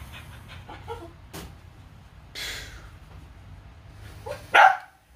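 A dog panting and sniffing while hunting an armadillo hidden in the car's frame, with one short, loud bark near the end.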